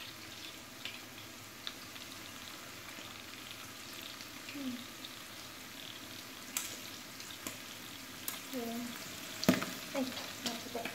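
Sliced beef and onions sizzling and frying in fat in a large aluminium pot as they brown, with scattered clicks and knocks from stirring; the sharpest knock comes near the end.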